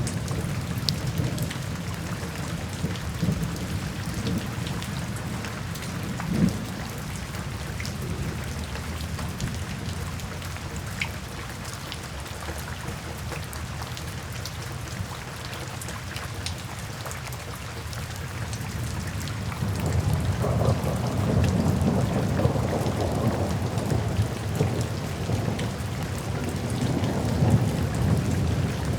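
Steady rain with scattered ticks of individual drops, under low rolling thunder. An early rumble eases off over the first few seconds, then a stronger roll of thunder builds about two-thirds of the way through and keeps rumbling.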